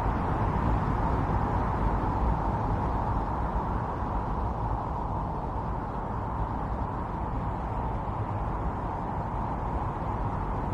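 Intense snowstorm wind blowing steadily: a dense rushing noise with a deep rumble beneath, easing off slightly about midway.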